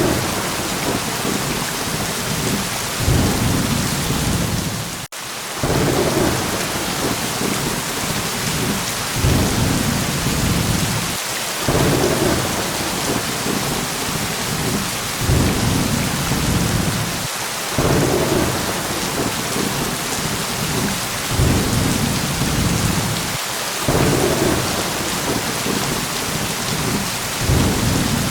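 Steady heavy rain with low rolls of thunder swelling again and again, every few seconds. The sound drops out for a moment about five seconds in.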